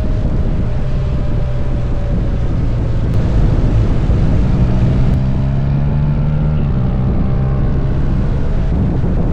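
Motorcycle engine running at road speed, with wind rushing over the microphone; the engine note rises and gets a little louder about three seconds in.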